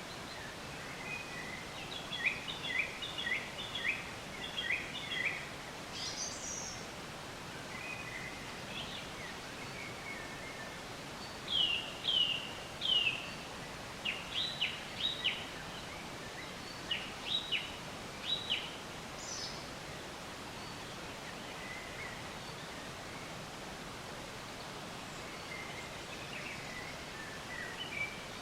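Songbirds chirping in bursts of short, quick high notes, some sweeping downward, over a steady outdoor hiss.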